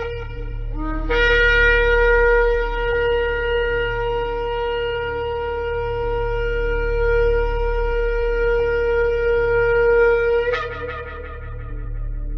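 Shofar (ram's horn) blown: a brief low note rises into one long, steady blast of about nine seconds, which ends with an upward break in pitch before dying away. A steady low hum runs underneath.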